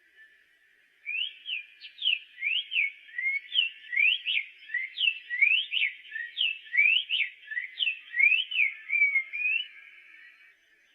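Magpie tanager (sanhaço-de-coleira) singing: a fast, jerky series of sharp whistled notes sweeping up and down in pitch. It starts about a second in and goes on for some eight and a half seconds.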